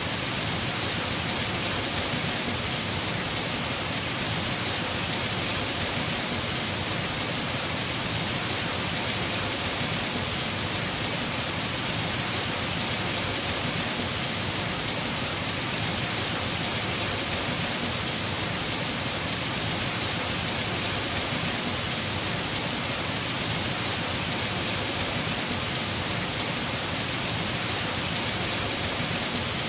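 Heavy rain falling steadily on a house roof, an even, unbroken hiss.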